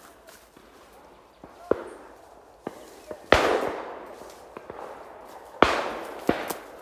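Two shotgun shots about two seconds apart, each trailing off in a long echo, with fainter sharp cracks of shots before them.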